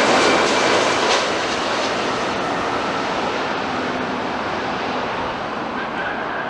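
Jet airliner engines making a steady rushing noise that slowly fades as the plane moves away.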